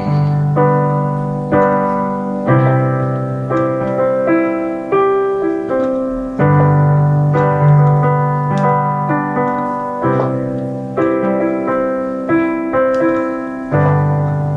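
Solo piano playing a slow instrumental passage, gentle chords and a melody of single notes, each note struck and then fading.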